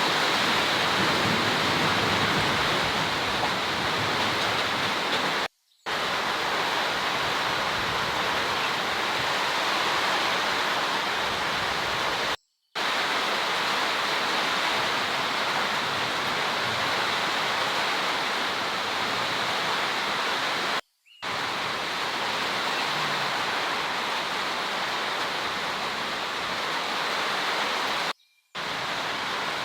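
Heavy rain pouring down as a steady, even hiss, cut off by four short moments of complete silence.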